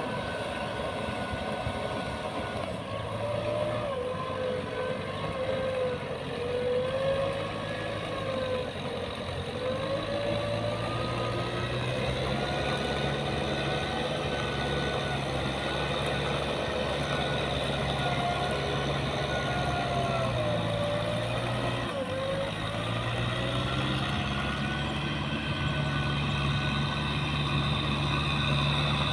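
Diesel engine of heavy farm or earthmoving machinery running steadily, its pitch stepping up and down a few times and rising near the end, with a wavering squeal above it.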